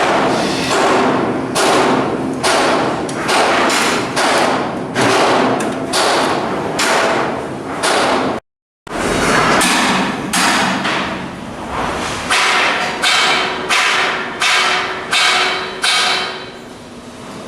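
Repeated hammer blows on steel, about two a second, each ringing briefly in a large reverberant space, with a short silent break about halfway.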